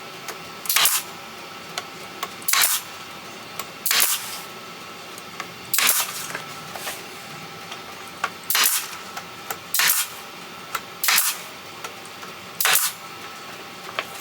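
Brad nailer firing 1.25-inch brads into wood, about eight sharp shots spaced one to three seconds apart, with small clicks between them.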